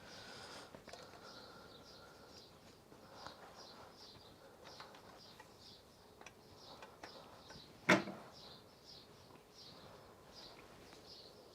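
A bird's short high chirp repeating steadily about twice a second, with faint handling clicks and one sharp knock about eight seconds in.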